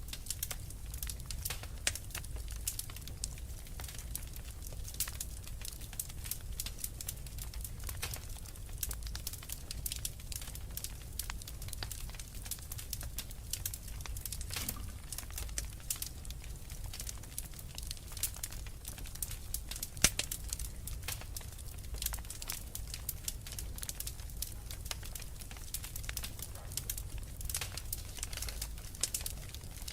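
Wood fire crackling in a fireplace: a steady stream of small crackles and pops over a low rumble, with one sharper pop about twenty seconds in.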